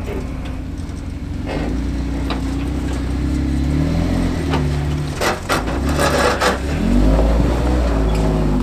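Off-road Jeep's engine revving up and down under load, with several sharp knocks and crunches, most of them a little past the middle.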